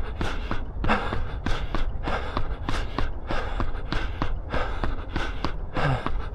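A runner's footfalls in a quick, even rhythm, with hard, rhythmic breathing from running at threshold pace. A steady low rumble of wind on the microphone runs underneath.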